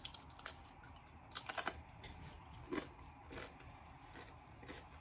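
Tortilla chip being bitten and chewed: a handful of separate crisp crunches, the loudest cluster about a second and a half in, with a few more near three seconds.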